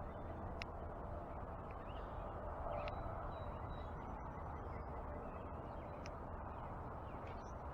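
Faint backyard birds chirping and calling in short, high notes over a steady low outdoor rumble, with a few sharp clicks.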